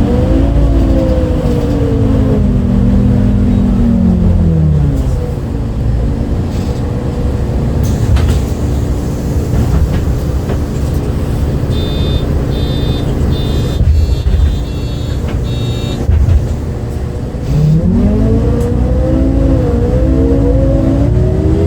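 Heard from inside the bus, the MAN D0836 LOH 63 six-cylinder diesel of a MAN Lion's City A37 winds down over the first five seconds and settles to idle. A run of short high beeps sounds about twelve to sixteen seconds in, and from about seventeen seconds the engine climbs again as the bus pulls away through its ZF Ecomat automatic gearbox. On this bus that day the engine had an unusual sound that the uploader had never heard from a MAN before.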